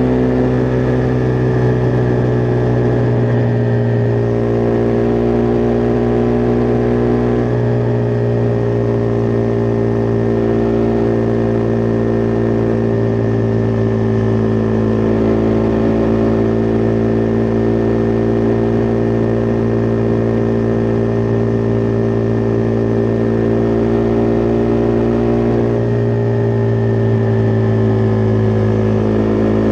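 Husqvarna Vitpilen 401's single-cylinder engine running at a steady cruise under light throttle. The note holds mostly even, easing down slightly a few seconds in and again near the end.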